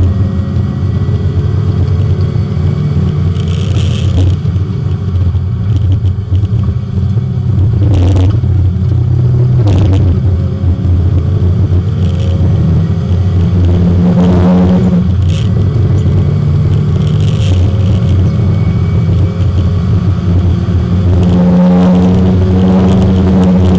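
Porsche 924 race car's four-cylinder engine heard from inside the car, running hard on track, its pitch climbing and dropping through the gears with a few short breaks at the shifts.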